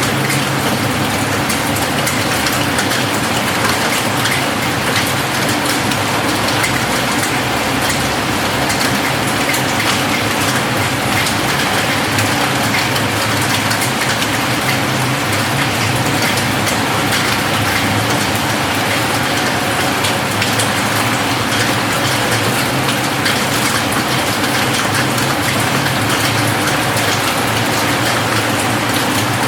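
Steady rain falling on a roof: a constant hiss with a dense patter of individual drops.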